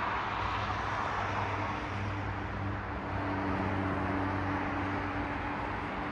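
Cars passing on a city street: a steady hiss of tyres on the road, with a low engine hum from one vehicle that comes in about a second and a half in and fades near the end.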